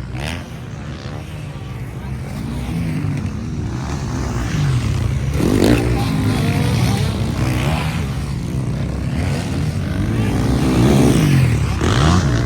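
Motocross bikes racing past, engines revving up and down with the throttle; the sound swells as bikes come close, about halfway through and again near the end.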